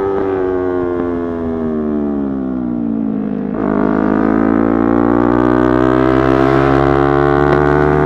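Yamaha YZF-R3's parallel-twin engine under way: the revs fall off for about three and a half seconds as the throttle is closed, then the throttle opens, the engine gets louder and the revs climb steadily in the gear.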